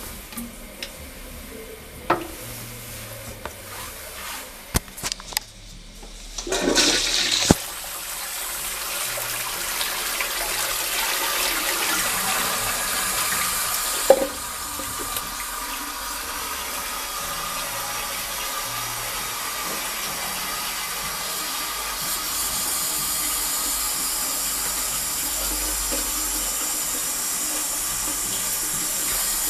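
Trent toilet flushing a load of toilet paper: a few clicks, then a loud burst of water about six seconds in, settling into a long steady rush and hiss of water with one knock midway.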